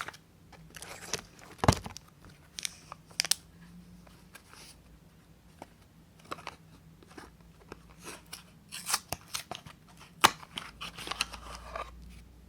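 Soap packaging being opened by hand: the wrapper crinkles and tears in irregular short crackles, with sharp cracks about two seconds in and again about ten seconds in.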